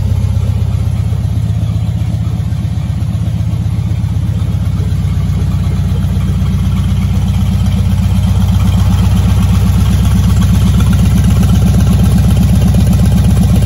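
Fiat 126's small two-cylinder engine idling steadily through a twin-tip sports exhaust, getting louder and raspier in the second half.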